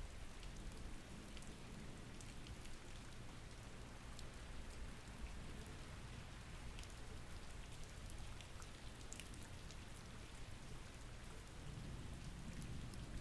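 Steady rain falling, with scattered drop ticks over a constant hiss and a low rumble underneath: a rainstorm ambience.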